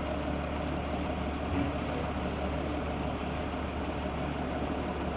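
SUV engine idling with a steady low hum, with a few faint clicks over it.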